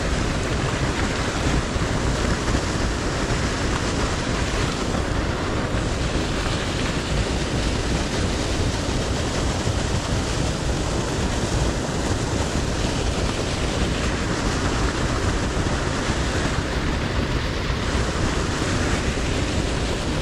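Steady, loud rushing of water, an even noise with no break, from the pump-fed inflow pouring into the river.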